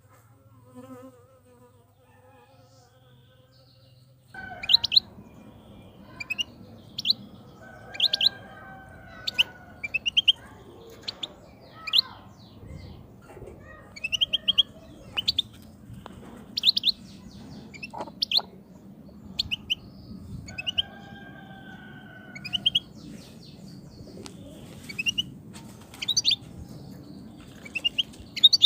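Wild European goldfinch calling: short, high twittering notes in little clusters about once a second, starting about four seconds in, with a few lower drawn-out whistles between them.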